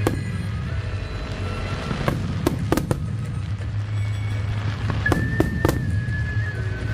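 Aerial fireworks bursting in sharp bangs, several in quick clusters, over a continuous low rumble. Music plays along underneath.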